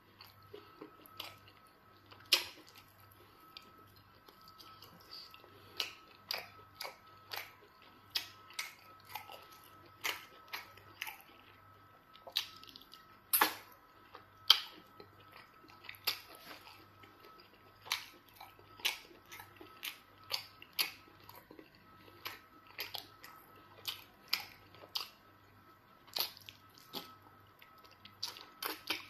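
Chewing and biting of pounded yam fufu and chicken in black soup, eaten by hand: irregular short, sharp clicks and crunches, one or two a second.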